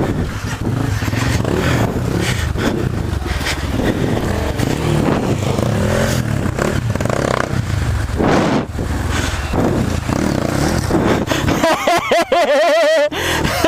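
Off-road motorcycle engines running and revving. A loud tone that wavers rapidly up and down cuts in near the end.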